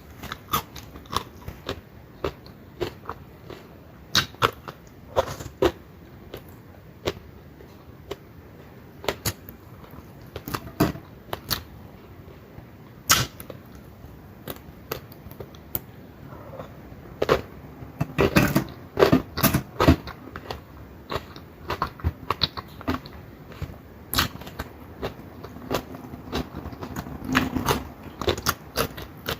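A person eating with the mouth close to the microphone: crunching and chewing of crisp fried dried fish and squid, heard as many sharp crackles and clicks. The crunching gets busier and louder about two-thirds of the way through.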